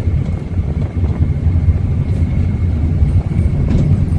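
Steady low rumble of a city bus's engine and road noise, heard from inside the moving bus, with a faint steady high whine over it.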